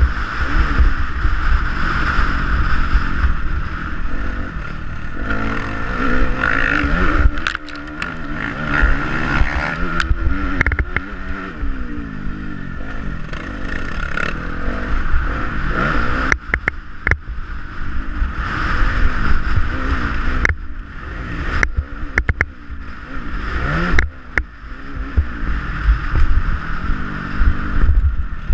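Motocross bike engine running, its pitch rising and falling as it revs up and down, over a steady low rumble, with sharp knocks here and there.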